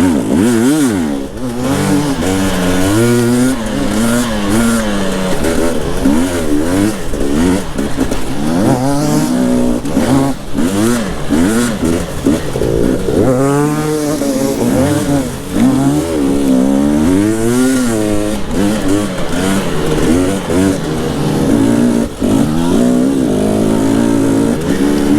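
Enduro dirt bike engine revving up and down over and over as the bike is ridden hard along a trail, the pitch rising and falling every second or two.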